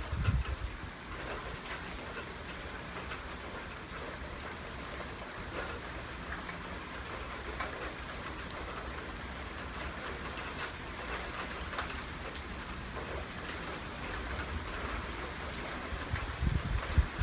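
Steady heavy rain falling on hard surfaces, with many small drop ticks.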